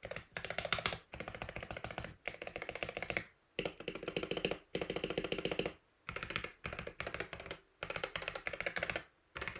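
Typing on a stock Wooting 60HE keyboard with its Lekker magnetic Hall-effect linear switches: runs of fast keystrokes, clacking in bursts of about a second, with short pauses between them.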